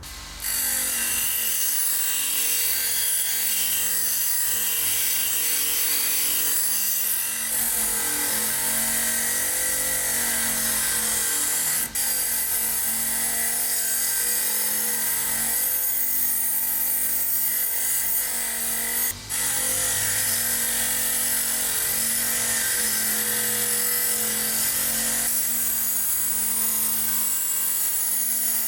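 A power tool running steadily while it abrades the rusty steel knife blade, the motor's pitch wavering slightly under load. The sound cuts out very briefly twice.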